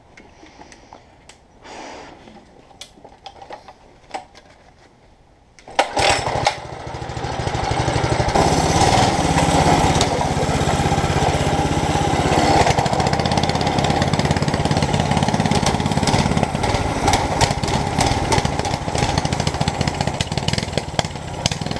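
A few light clicks and knocks, then about six seconds in a small mini bike engine starts and runs steadily, getting a little louder about two seconds later.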